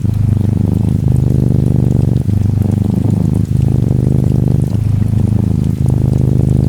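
Norwegian Forest Cat kitten purring close up, in even cycles of a little over a second with each breath in and out. Faint rain patters underneath.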